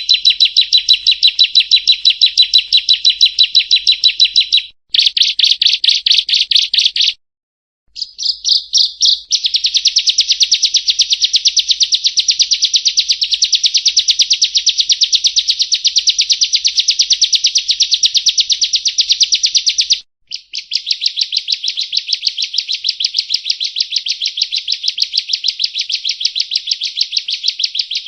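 Bar-winged prinia (ciblek kristal) singing long, fast trills of rapidly repeated high notes, in stretches of several seconds broken by three short pauses.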